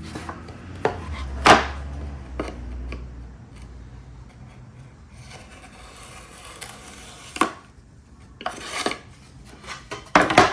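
Handheld edge banding trimmer run along a shelf edge, its blades scraping and shaving off the overhanging wood veneer banding. Several sharp knocks and clacks from handling the tool and the workpiece, the loudest about a second and a half in.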